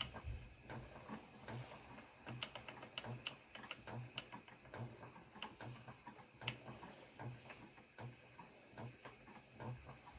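Spinning wheel running while yarn is spun: a faint, steady rhythm of low knocks with light ticking between them.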